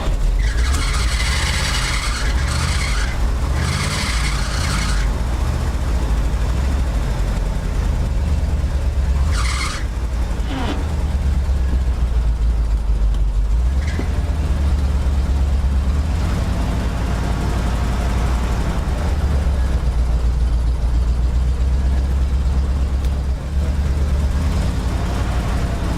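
GMC dump truck's engine running steadily with a low rumble, just brought to life after sitting in storage. Several loud hissing bursts come in the first five seconds, and another about nine seconds in.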